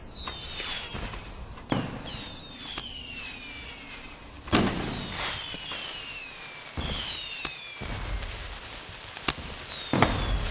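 Fireworks going off: a string of sharp bangs, several followed by high whistles that fall in pitch. The loudest bangs come about four and a half seconds and ten seconds in.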